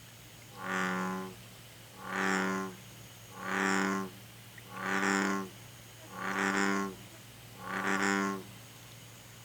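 American bullfrog (Rana catesbeiana) calling: six low croaks, each a little under a second long, spaced evenly about one and a half seconds apart.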